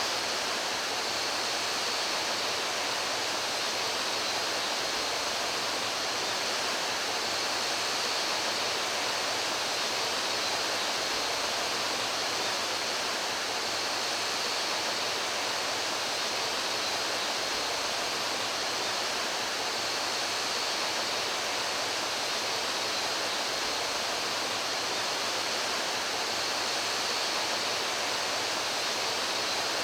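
Steady rushing of water flowing in a mountain stream, an even hiss with no breaks or changes.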